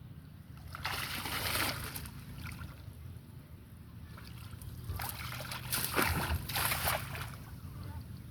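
Water splashing in two bursts, about a second in and again from about five to seven seconds, over a steady low hum.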